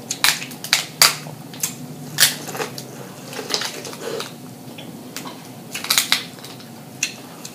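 Close-up eating sounds of biting and chewing corn on the cob: irregular sharp, wet clicks and crunches from open-mouthed chewing and lip smacking.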